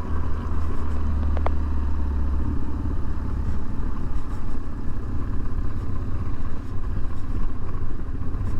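BMW R1150 GSA's boxer-twin engine running steadily under way, with wind and road noise. The engine note changes about two and a half seconds in.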